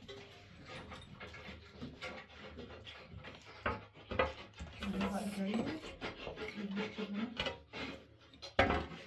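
Hand tools scraping and knocking on a wall and tiles: a run of short knocks and rubbing. A voice is heard briefly in the middle.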